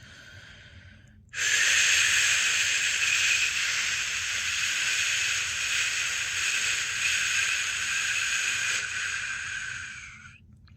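A person's long, steady 'shhh' shushing sound, used to soothe a newborn to sleep. It starts loud about a second in, holds for about nine seconds and fades out near the end.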